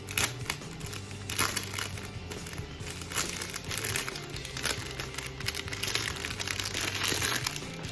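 Packaging crinkling and rustling in irregular bursts as a hair-bundle package is opened by hand, over background music.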